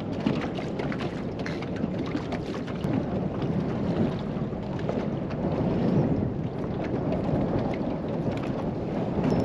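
Strong wind buffeting the microphone as a steady low rumble, with a sprinkle of small ticks from wind-driven chop splashing against the boat.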